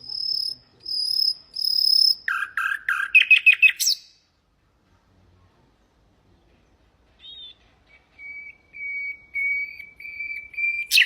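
Common nightingale singing. It gives three long pure whistles, then a fast run of notes that climbs in pitch. After a pause of about three seconds it sings a row of drawn-out whistles on one pitch, then breaks into a rapid trill near the end.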